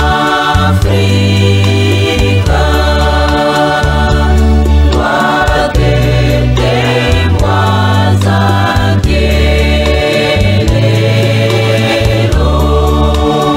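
A choir singing gospel music over a steady bass line.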